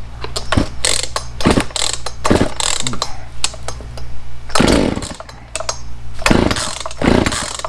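Poulan two-stroke chainsaw engine running just after starting, with the choke pushed partway in. It holds a steady low idle broken by repeated short, loud surges.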